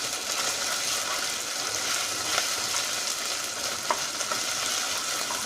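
Ginger paste and browned onions sizzling in hot oil in a pan while being stirred, with a steady frying hiss and a couple of light taps on the pan.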